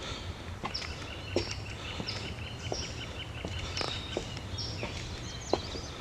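Birds calling: a short high note repeated every half second or so over a steady higher chattering, with the soft knocks of footsteps and a low rumble underneath.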